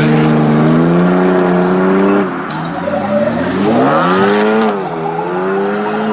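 Car engine accelerating hard, its pitch climbing for about two seconds and then dropping abruptly, followed by a quick rev that rises and falls about four seconds in.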